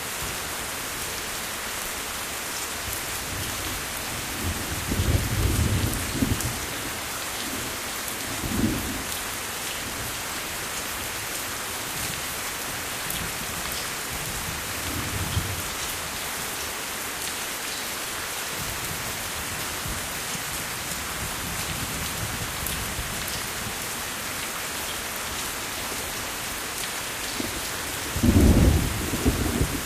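Steady heavy rain falling, with low rolls of thunder several times; the loudest roll comes near the end.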